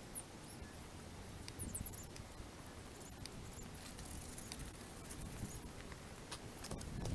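Campfire crackling with scattered sharp pops and ticks, joined by a few brief high squeaks.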